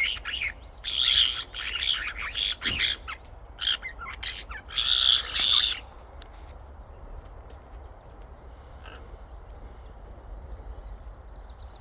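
Pet birds squawking harshly, several loud calls in the first six seconds, then only a few soft chirps over a faint steady hiss of rain.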